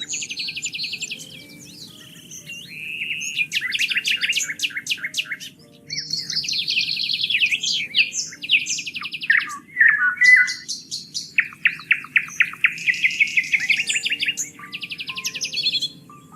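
Several songbirds singing at once: rapid trills and quick chirp series overlapping, breaking off and starting again, over a faint steady low background.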